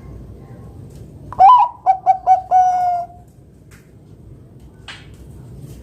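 Bangkok-type zebra dove (perkutut) cooing one song phrase about a second and a half in: an opening note, three short clipped notes, then a long held final note, the "kung".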